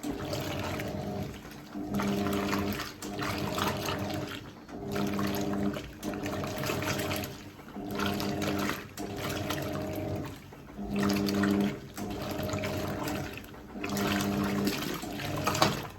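Hoover 1400 top loader's PowerPulse agitator washing a load. The motor hum comes in short strokes roughly every second and a half as the agitator swings back and forth, with water churning and sloshing in the tub between them.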